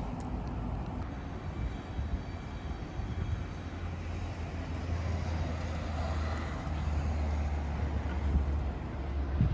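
Steady low engine drone, growing louder from about the middle.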